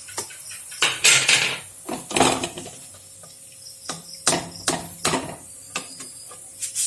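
Metal utensil scraping and tapping against a cooking pan in a series of irregular strokes, as fried fenugreek seeds are scooped out of hot oil.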